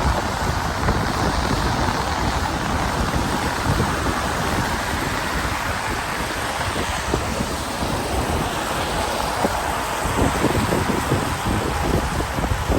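Wind buffeting the microphone in uneven low gusts over a steady hiss of rainy street noise.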